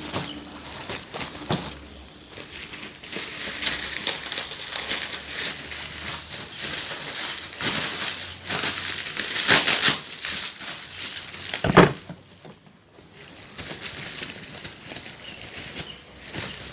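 Plastic packing wrap crinkling and rustling as it is handled and wrapped around a mask in bursts, with one sharp thump about 12 seconds in.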